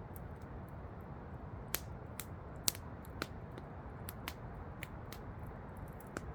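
Campfire crackling, with sharp wood pops scattered irregularly, the loudest a little under three seconds in, over the steady rush of a waterfall.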